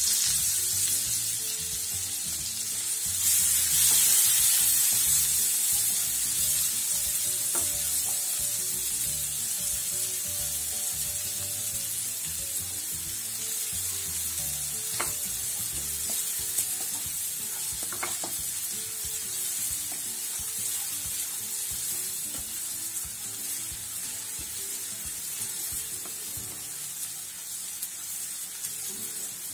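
Chopped onion sizzling in foaming butter and oil in a non-stick frying pan while a spatula stirs it. The sizzle is loudest a few seconds in and then eases off gradually, with a few faint clicks from the stirring.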